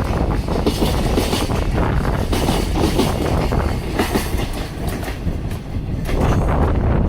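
Container wagons of a freight train rolling past at speed, their wheels clattering over the rail joints in a steady clickety-clack.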